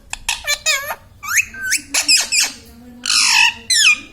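Indian ringneck parakeet chattering: quick warbling chirps and rising and falling whistles, then a harsh squawk about three seconds in and a falling whistle near the end.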